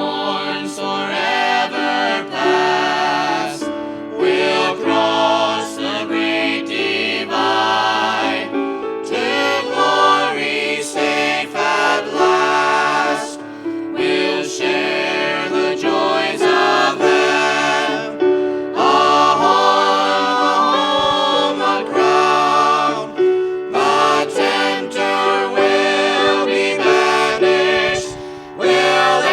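A family vocal group singing a gospel song in harmony, several voices together with vibrato on the held notes.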